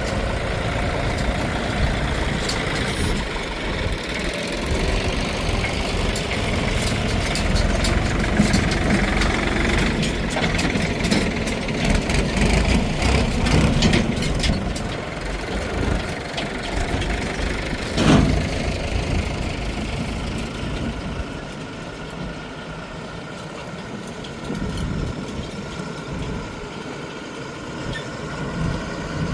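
Heavy diesel machinery running under load, with scattered clanks and one loud bang about eighteen seconds in. After that it eases to a quieter, lower running sound.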